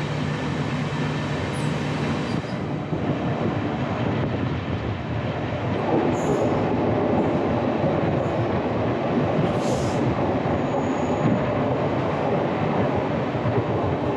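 Running noise of a moving passenger train heard from an open coach door: wheels rolling on the rails with rushing air, steady and growing louder about six seconds in.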